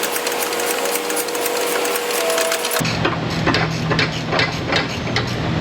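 Ratcheting gear wrench clicking quickly as a nut is run off a bolt, starting about three seconds in. Before that comes a steady hum over a hiss.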